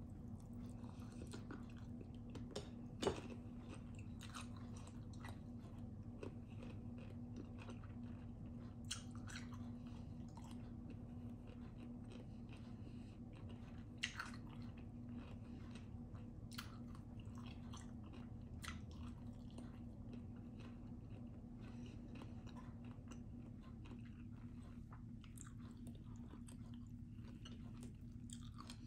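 A person chewing and biting food close to the microphone, with scattered small wet clicks and crunches, a sharper one about three seconds in and another near the middle, over a steady low hum.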